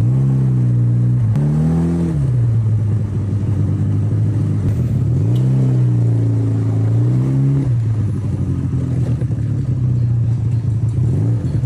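Engine idling steadily, revved twice: a short blip about a second in, then a longer rev that holds for about two seconds in the middle before dropping back to idle.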